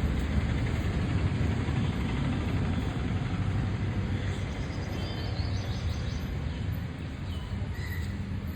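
Steady low rumbling outdoor noise, easing slightly, with a few faint bird chirps in the second half.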